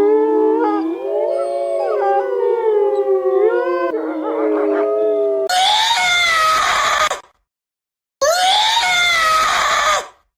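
Several animals, most likely dogs, howling together in overlapping wavering pitches. They give way, about five seconds in, to two loud, harsh calls with a falling pitch, each about a second and a half long and each ending abruptly in silence.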